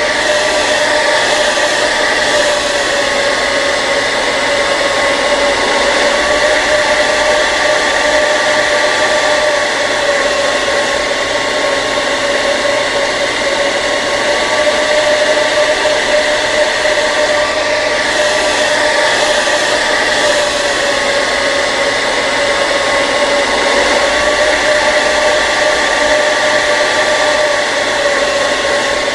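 Hair dryer running steadily: rushing air over an unchanging motor hum.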